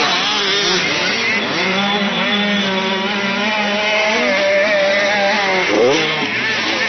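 Motocross bike engine running at steady high revs, holding one pitch, with a quick rise and fall in revs near the end.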